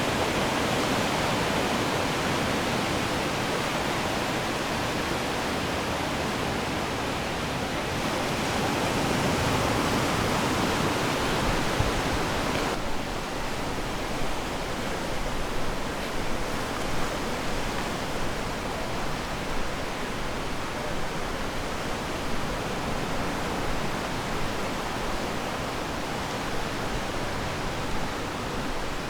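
Ocean waves washing onto the shore in a continuous rush of surf, swelling louder about eight to twelve seconds in. About thirteen seconds in the sound changes abruptly to a softer, more uneven wash of waves.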